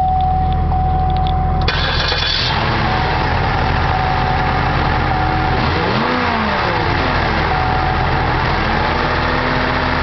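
2008 Cadillac DTS's Northstar V8 starting about two seconds in, over a steady electronic warning chime. It then runs at idle, revved up and back down twice.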